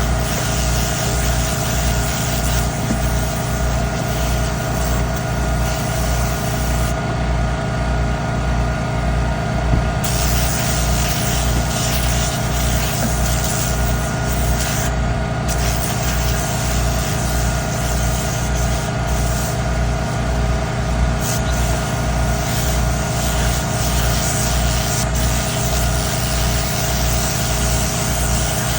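Car-detailing machinery running steadily: a loud hiss of rushing air or spray over a regular low pulsing from the motor. The top of the hiss dies away for a few seconds about a quarter of the way in.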